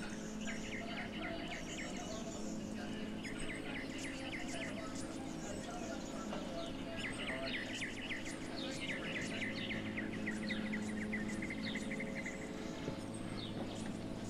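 Birds singing: repeated trills of quick chirps, several runs in a row, over a steady low hum.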